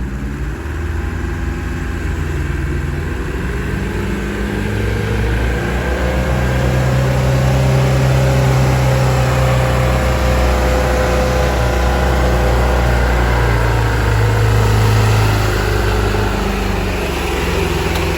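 Heavy diesel truck engine running hard under load on a steep climb. It grows louder over the first few seconds, then holds with a slight rise and fall in pitch.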